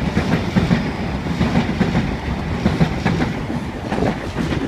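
Sydney Trains H-set (OSCar) double-deck electric train running through the station at speed, its wheels on the rails making a steady rumble with clatter.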